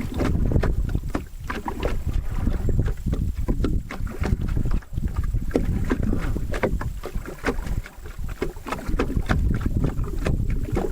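A wooden canoe being paddled on a river: paddle strokes and water splashing and lapping against the hull, many short splashes over a steady low rumble.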